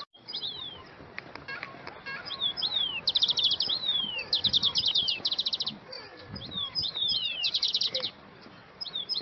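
Songbirds singing: rapid high trills repeated again and again, alternating with quick down-slurred whistled notes.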